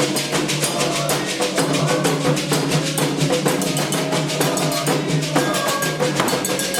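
Candomblé ritual drumming: atabaque hand drums playing a fast, dense, steady rhythm, with a bell-like struck percussion part.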